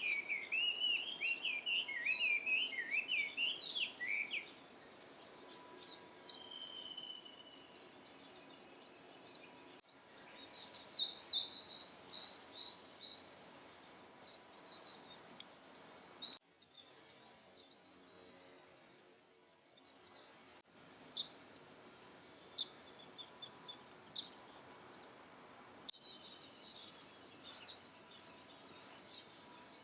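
Wild songbirds singing in a spring chorus, many quick high chirps and trills overlapping. The background changes abruptly a few times.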